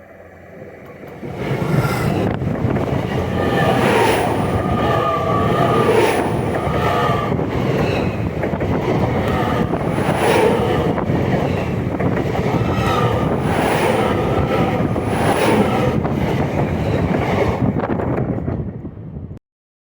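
LNER Azuma high-speed train passing directly over a camera under the track. A loud rush of steel wheels on rail with a regular clatter as each set of wheels rolls over, starting about a second and a half in and cutting off abruptly near the end.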